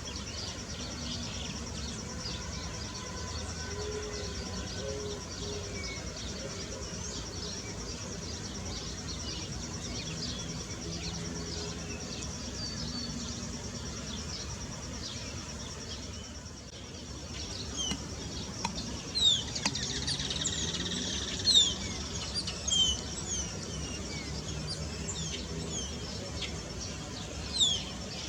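Outdoor ambience with an insect trilling steadily at a high pitch. From a little past the middle, small birds chirp in many quick, sharp high notes, a few of them louder.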